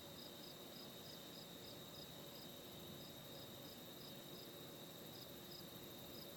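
Faint night insects: a cricket chirping in an even pulse of about four chirps a second over a steady high-pitched insect trill.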